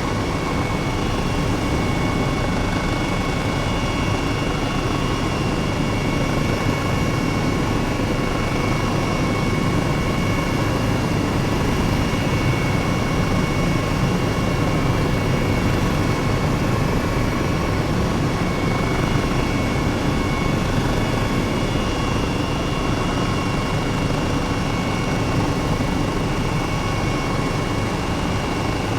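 Helicopter engine and rotor noise heard from inside the cabin in flight: a steady drone with a few constant high whining tones over it.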